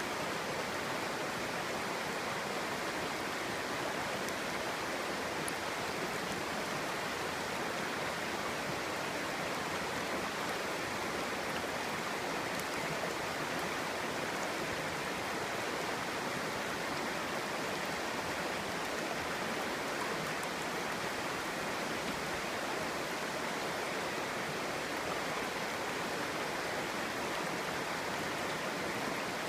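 Clear, shallow stream babbling steadily over stones, an even, unbroken rush of water.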